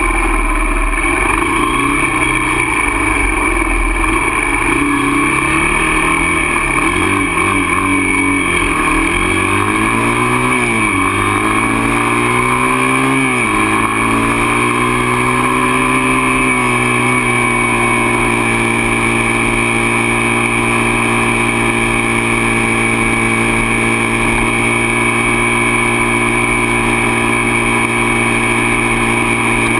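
Dirt bike engine running, its revs rising and falling unevenly for about the first thirteen seconds, then settling at a steady pitch.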